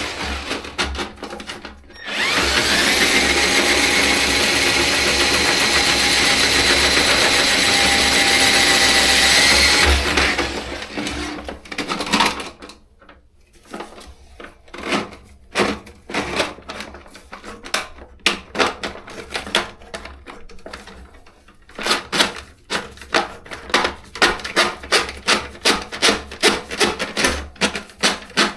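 A handheld power tool, a drill or drill-driven drain auger, runs steadily at one speed for about eight seconds and then stops. A long run of sharp clicks and taps follows, coming several a second near the end.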